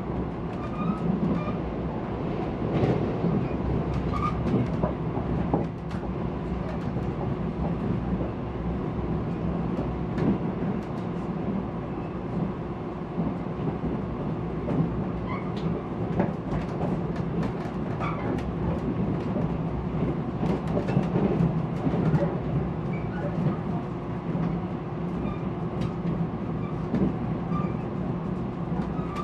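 Cabin noise inside a Mugunghwa passenger train under way: a steady low rumble from the wheels on the rails, with scattered clicks and a faint steady hum.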